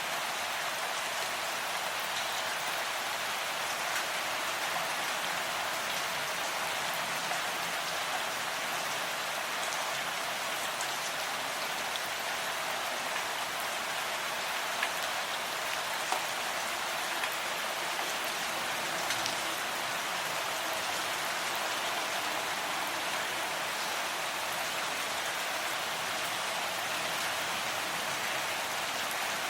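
Steady rain falling, an even hiss of many drops with a few louder single drop ticks now and then.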